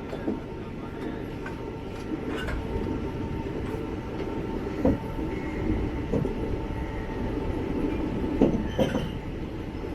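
Passenger express train running slowly on the track, a steady rumble broken by irregular knocks and clunks of the wheels over rail joints.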